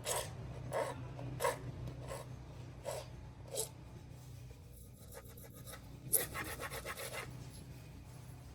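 Hand rubbing or scraping strokes on a hard surface, about six separate strokes in the first four seconds, then a quicker, rasping run about six seconds in.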